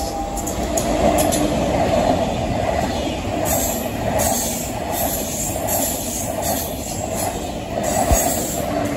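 A TGV high-speed trainset passing close by: a steady rumble of wheels on rail, with a hiss that swells every second or so from about halfway through as each set of wheels goes past.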